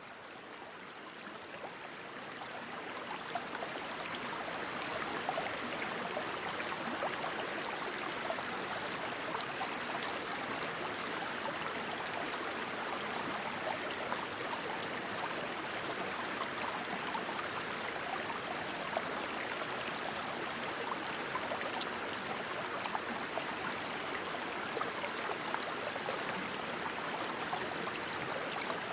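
Rushing stream water, a steady hiss that fades in over the first few seconds, with short high chirps dotted over it and a quick chirping trill about halfway through.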